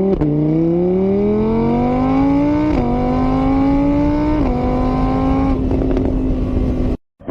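Car engine accelerating through the gears: the pitch rises steadily, drops twice at the gear changes, then holds steady before turning rougher and cutting off abruptly.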